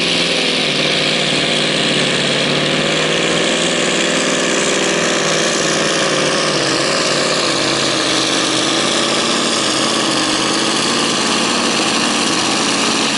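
Scania V8 truck engine running hard at high, nearly steady revs under heavy pulling load, its pitch wavering only slightly.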